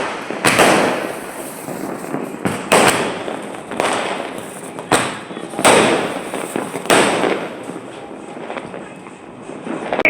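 Sky shot fireworks going off: a series of sharp bangs at uneven intervals of about a second, each fading out, over continuous crackling.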